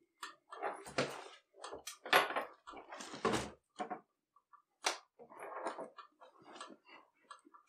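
Sheepskin coat being handled and pressed by hand: an irregular run of rustling and rubbing of the suede and fleece, loudest about two and three seconds in.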